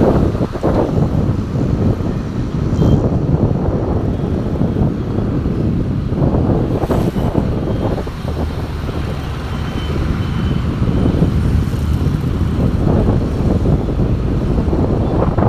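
Passenger train rolling over a railway bridge: a steady, loud rumble with rapid, repeated clatter of wheels over the rail joints.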